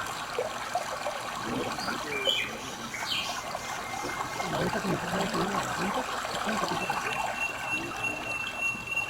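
Stream water trickling and splashing steadily, with a few short bird chirps a couple of seconds in and a steady high-pitched tone coming in during the last couple of seconds.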